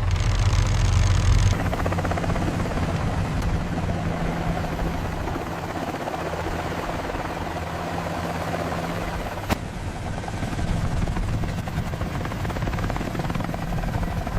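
A loud, steady low mechanical drone that starts suddenly and runs on evenly, with one sharp click about nine and a half seconds in.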